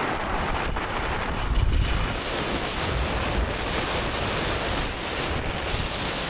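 Wind buffeting the microphone during a snowkite ride in a blizzard: a steady rushing noise with heavy low rumbles from gusts, strongest a second and a half to two seconds in.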